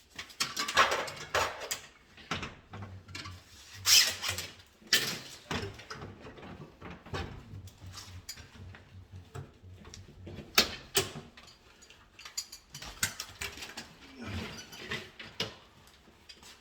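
Irregular clicks, knocks and rustling from hand work with tools and electrical wiring materials, with sharper knocks about 4 and 5 seconds in and again near 10 seconds.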